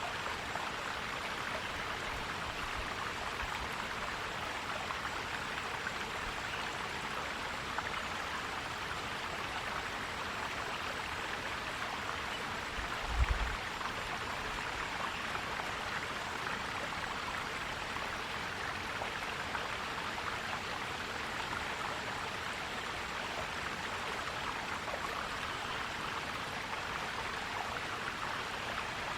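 Forest stream flowing and gurgling steadily, with a brief low thump about halfway through.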